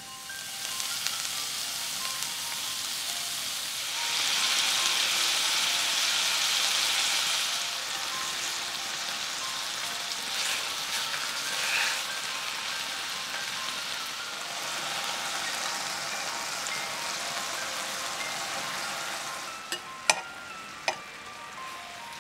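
Flour-coated beef rolls sizzling in hot oil in a frying pan, a steady hiss that swells for a few seconds early on as more rolls go in. The sizzle drops away shortly before the end, followed by a few sharp clicks.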